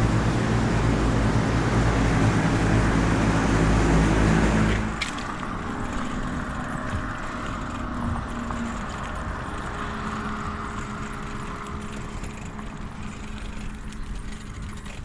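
A loud, steady, low mechanical hum with a droning tone from running air-conditioning equipment. About five seconds in it cuts off abruptly to quieter wind and road rumble from riding a bicycle.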